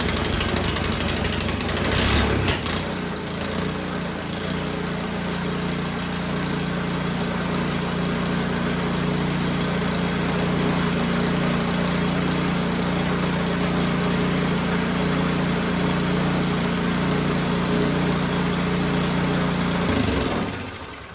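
Old snow blower's small engine running just after a cold start on choke, louder and rougher for the first two or three seconds, then running steadily before cutting off near the end.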